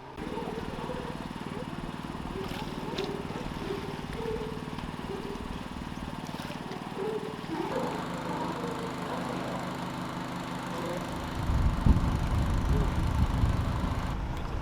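An engine running steadily at idle, its pitch shifting about eight seconds in, with faint voices in the background. Wind buffets the microphone for the last few seconds.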